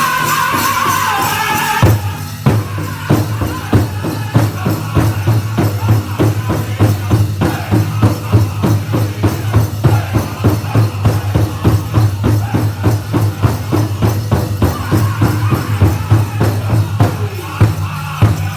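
Powwow drum group music: high-pitched singing ends about two seconds in, then a steady, even drumbeat carries on, with the singing coming back faintly near the end.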